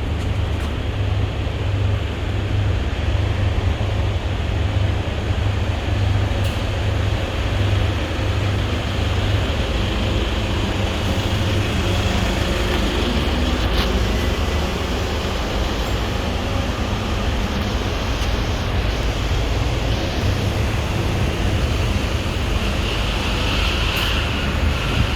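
Daikin RC35NV14 split air conditioner outdoor unit running: a steady loud fan and compressor noise with a low hum. A second identical unit starts up near the end.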